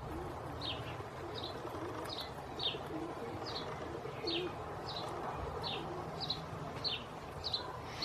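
A bird chirping over and over: short, high, downward-sliding notes, about one and a half a second, over a steady low background hiss.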